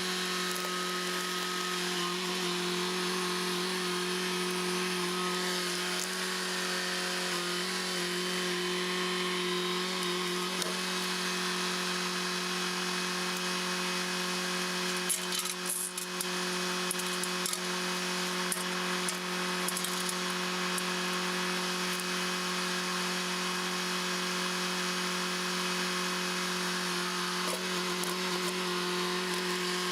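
A machine engine running at a steady speed: a constant, even hum that holds unchanged, with a brief rattle of noise about halfway through.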